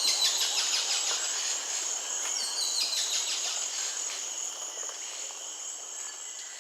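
Steady high-pitched insect chorus in wetland bush, with quick series of falling high bird notes twice, near the start and about three seconds in. The sound fades down toward the end.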